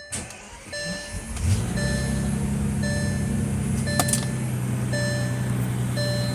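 Bentley Continental Flying Spur Speed's W12 engine cranking briefly about a second in, then catching on a cold start and settling into a steady idle. A car warning chime repeats about once a second over it.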